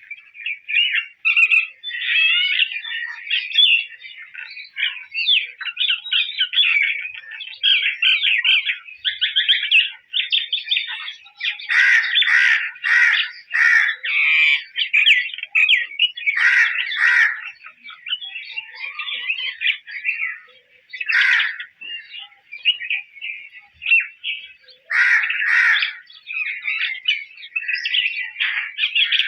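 A bird singing without a break: a rapid, chattering warble of many short high notes, with louder bursts every few seconds.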